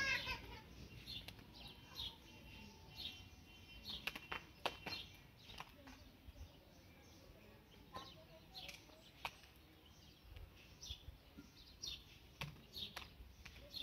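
Quiet outdoor background with small birds chirping: short, high, falling chirps repeating every second or so, with a few sharp clicks.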